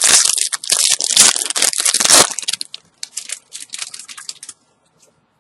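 Foil wrapper of a trading-card booster pack crinkling and tearing as it is opened, loud and dense for about two seconds, then dropping to sparser, softer crinkles that stop about four and a half seconds in.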